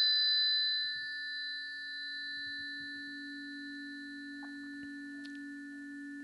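Planetary tuning forks ringing in several steady overlapping tones that slowly fade; the highest tones die out about five seconds in.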